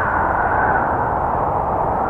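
Snowstorm wind blowing steadily, a dense rush with a howling tone that slowly rises and falls.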